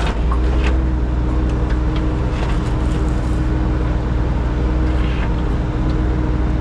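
Engine of a compact construction machine running steadily under load, heard from inside its cab, a low drone with a steady hum, with scattered light taps and clicks over it.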